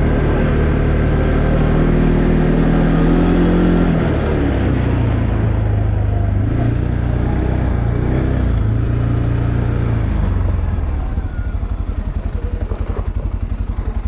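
Arctic Cat Alterra 700 ATV's single-cylinder engine running under throttle, easing off about four seconds in and dropping to a steady, pulsing idle near the end.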